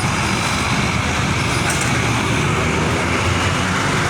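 Steady road traffic noise with a large vehicle's engine running low underneath.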